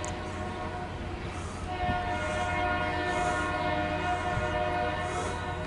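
Maryland Midland diesel freight locomotive's air horn sounding one long steady chord, louder from about two seconds in and easing near the end, over a low steady rumble from the approaching train.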